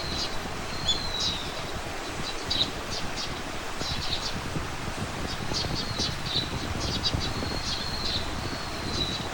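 Songbirds chirping, with clusters of short calls and a few drawn-out whistles, over a steady low rush of wind.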